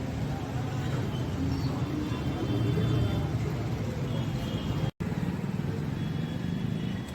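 Steady street traffic rumble with vehicles running close by. The sound cuts out for an instant about five seconds in.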